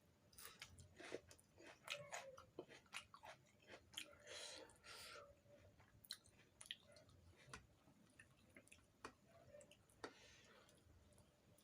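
A person chewing puri with potato curry, soft wet mouth clicks and smacks, busier in the first half.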